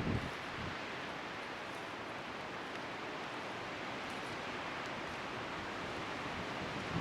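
Outdoor bonfire burning with a steady rushing hiss and a few faint crackles, with wind around it; a short gust buffets the microphone at the very start.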